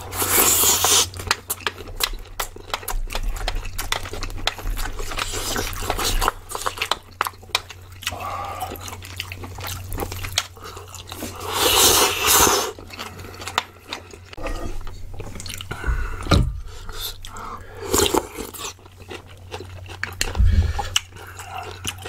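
Close-up eating sounds of two people chewing kimchi stew and bibimbap, with wet mouth clicks throughout and louder slurping from a spoon near the start and again about twelve seconds in.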